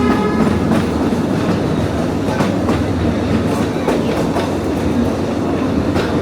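Metre-gauge train running along the track: a steady rumble with irregular clicks of the wheels passing over rail joints.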